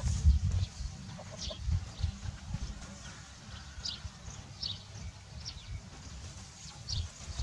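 Birds chirping: short high falling chirps, a few to each second or two, over a low uneven rumble of wind on the microphone that is strongest at the very start.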